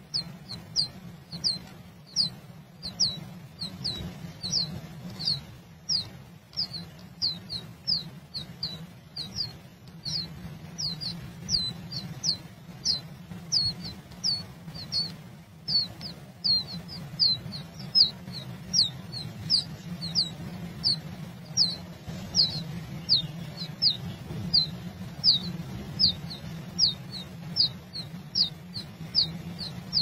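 A bird's high, thin chirps, repeated about twice a second without a break, each one dropping quickly in pitch, over a low steady hum.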